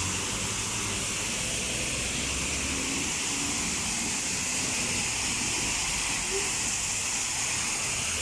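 Steady hiss of heavy rain pouring down, with a low vehicle rumble that dies away about three seconds in.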